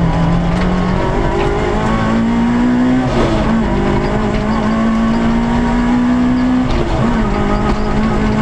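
Peugeot 106 S16 A6K rally car's 1.6-litre 16-valve four-cylinder engine running hard, heard from inside the cabin. Its note climbs over the first three seconds, dips briefly about three seconds in and again near seven seconds, over steady road and tyre noise.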